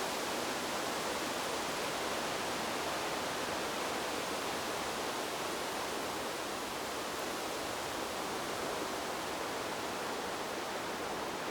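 Wind blowing through a bamboo grove: a steady rustling hiss of moving leaves that holds even throughout.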